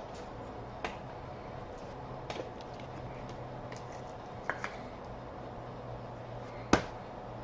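Trading cards being handled during a pack break: a few soft clicks and taps, the sharpest one near the end, over a steady low room hum.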